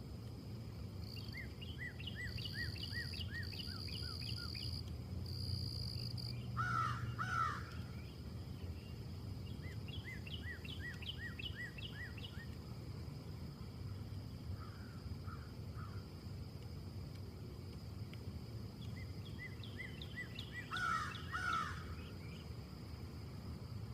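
Outdoor ambience of wind in trees, a low steady rush, with birds calling over it: three runs of rapid high chirps from a small bird, and two pairs of louder, harsher calls, one about a quarter of the way in and one near the end. A thin steady high tone runs underneath.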